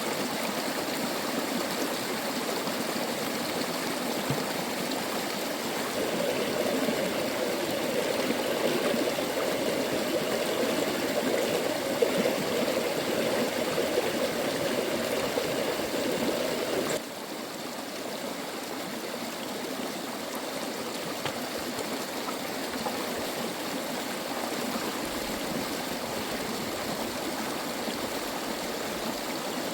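A stream running steadily, an even rushing of water. About two-thirds of the way through it drops suddenly to a quieter, thinner rush.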